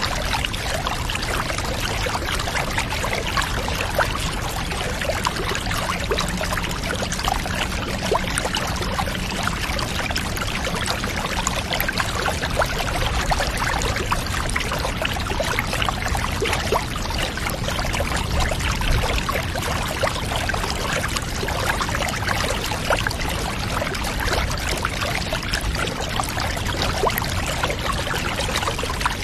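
Water pouring and splashing steadily, a dense, even run of small splashes that does not change.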